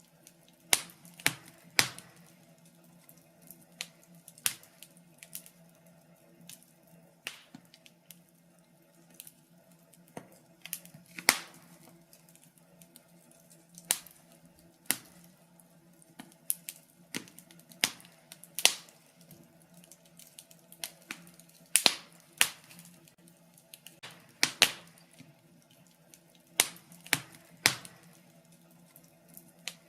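Wood fire crackling in a fireplace: irregular sharp pops and snaps, roughly one a second, some louder than others.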